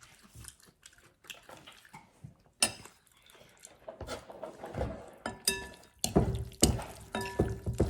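Close-up wet eating sounds from a spicy chicken-feet and shrimp salad: mouth clicks and squelching, with utensils clinking on a dish twice with a short ring, mostly in the second half.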